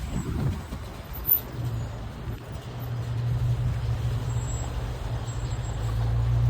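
Motor vehicle engine and road noise: a steady low drone that grows louder from about a second and a half in, with a single short knock just before.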